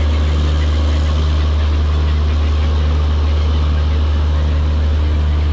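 Steady, loud, deep machine hum of a stationary train's running equipment, with a lower tone that cuts in and out every second or so.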